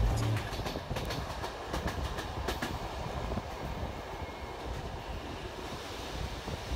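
Passenger train running along the track: a steady rumble of the moving carriages, with a few sharp clicks of the wheels in the first half.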